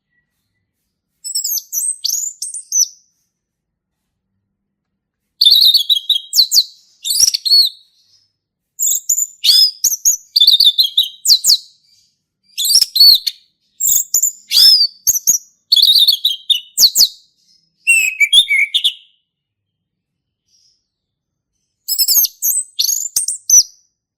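Male orange-headed thrush singing loud, varied song phrases of rich whistles and quick notes. About eight phrases, each one to three seconds long, are separated by short pauses.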